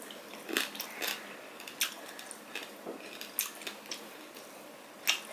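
A person chewing a hand-fed mouthful of food close to the microphone: irregular wet smacks and clicks of the mouth, the loudest near the end.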